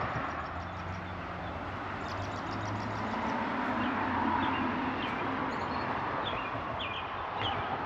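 Steady road traffic noise from vehicles crossing an overpass, with a low hum under it. A few short bird chirps come in over the second half.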